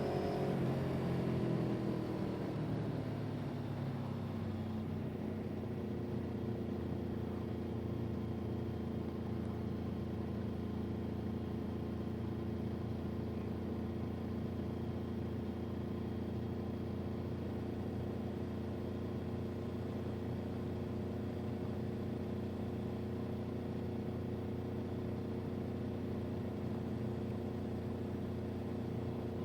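Motor vehicle engine, its pitch falling over the first few seconds as it slows, then running at a steady speed.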